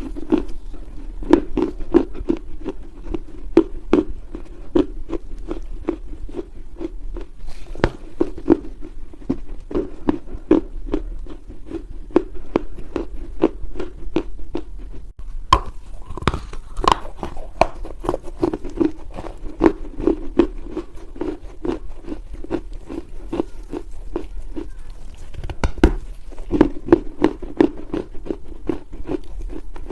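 Close-up crunching of dry Chinese loess clay being bitten and chewed, a steady run of sharp, soft crunches with a break about halfway through where one clip gives way to the next.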